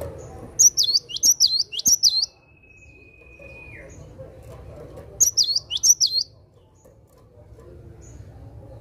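Cinereous tit (gelatik batu) singing its sharp, high "wucit wucit" phrase of about three quick notes. The phrase comes twice: about half a second in, and again about five seconds in.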